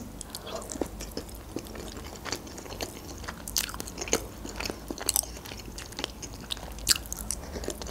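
A person chewing grilled chicken close to the microphone: irregular soft mouth clicks and smacks.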